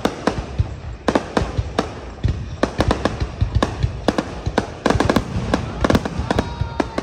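Aerial fireworks display: a rapid, irregular barrage of shell bursts and cracks, several bangs a second, some with a short rumbling tail.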